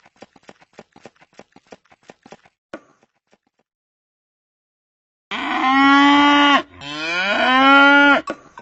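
Faint rapid clicking, then a cow mooing twice: one long steady low, and a second that starts low, rises and then holds.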